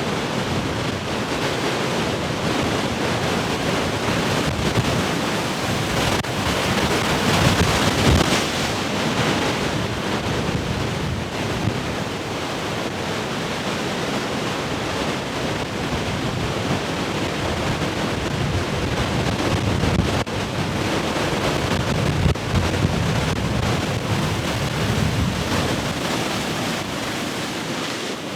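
Heavy ocean surf: waves breaking and washing in continuously, swelling louder about a quarter of the way through and again in the second half, with wind buffeting the microphone.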